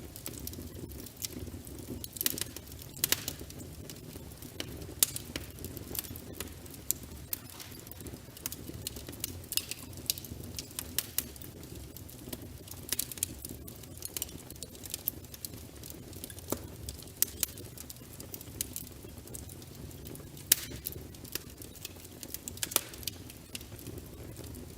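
Log fire burning, with a steady low rumble of flames and irregular sharp crackles and pops of the wood, several a second.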